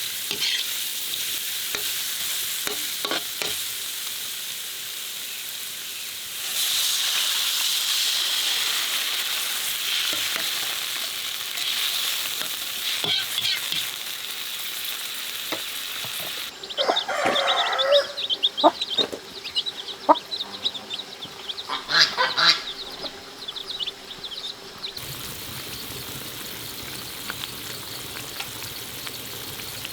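Food sizzling and frying in a hot pan while being stirred, with clicks and scrapes from the utensil; the sizzle grows louder a few seconds in. About halfway through it cuts to a different sound of sharp, irregular crackles and clatters, which then gives way to a quieter steady background.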